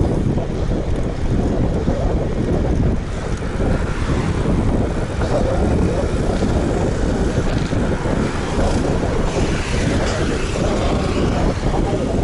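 Wind buffeting an action camera's microphone on a moving road bike: a steady, loud rushing noise, heaviest in the low end.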